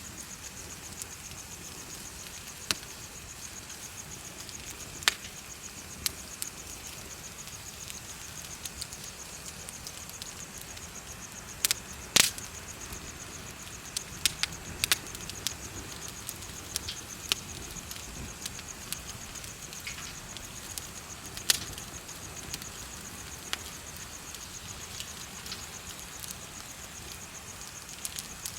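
Bonfire crackling with sharp, irregular pops, the loudest about twelve seconds in, over insects chirping in a steady high trill.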